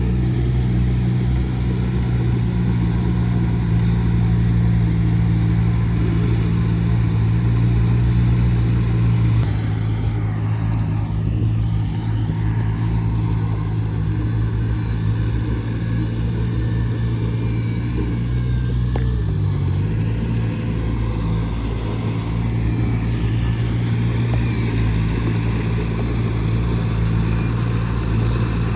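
Diesel engine of heavy earthmoving machinery running steadily, with a slight drop in level about nine seconds in and a brief dip in engine pitch about two-thirds of the way through.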